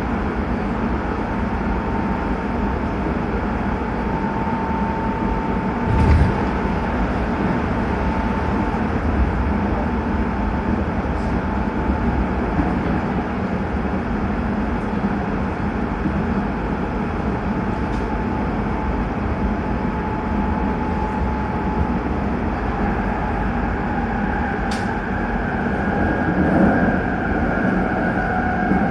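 Hanshin 9000 series electric train with Mitsubishi GTO VVVF inverters running: a steady rumble of wheels on rail, with a thin whine that fades out in the first several seconds. There is a single thump about six seconds in, and a higher whine sets in about three-quarters of the way through.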